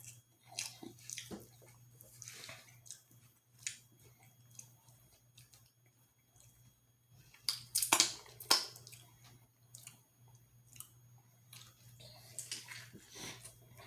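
Close-miked chewing and wet mouth smacks of someone eating, in scattered irregular clicks, with a louder cluster of crackles and smacks about eight seconds in.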